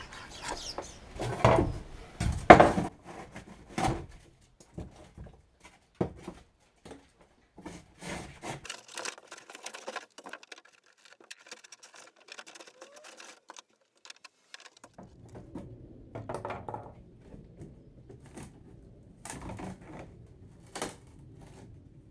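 Irregular knocks, scrapes and clicks of hand work on a fibreglass boat hull while waterlogged foam is pulled out of its box sections, loudest in the first few seconds. A faint low murmur sets in about two-thirds of the way through.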